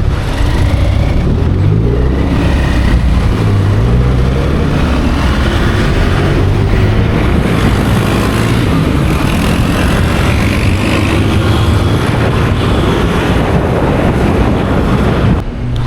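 A motor vehicle engine running under way, its pitch rising and falling as it speeds up and changes gear, with a loud rushing road and wind noise over it.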